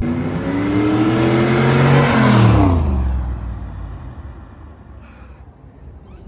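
1985 Chevrolet Camaro IROC-Z's 305 V8 accelerating, its engine note climbing for about two seconds. About two and a half seconds in the pitch drops sharply and the sound fades as the car goes past and away.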